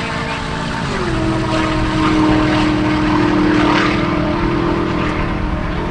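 An engine running with a steady drone, its pitch dropping once about a second in and then holding level.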